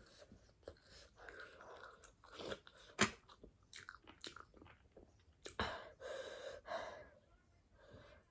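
A person chewing and biting crunchy food close to the microphone, in irregular crunches with a sharp bite about three seconds in.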